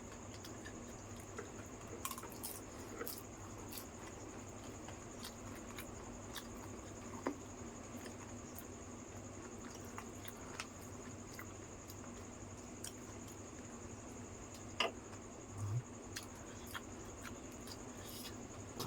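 Soft, scattered clicks and squishy mouth sounds of people eating yogurt-filled fuchka (pani puri), with a low thump about three quarters of the way through, over a steady faint high-pitched whine and hum.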